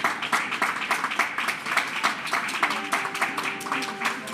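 A small crowd clapping: a dense run of hand claps that thins out near the end, with faint sustained notes underneath in the second half.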